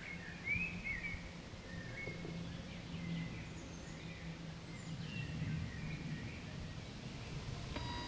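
Small songbirds chirping and warbling in short scattered calls, over a faint steady low hum.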